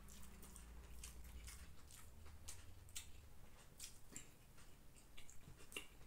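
Faint eating sounds: chicken dum biryani being chewed, with irregular small wet clicks and smacks from the mouth and the fingers gathering rice.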